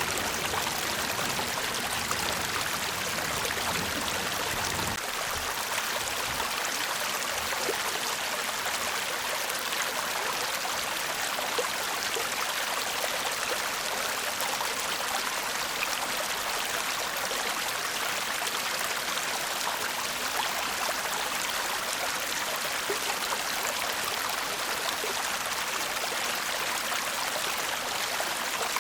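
Shallow stream murmuring over stones: a steady rush of running water.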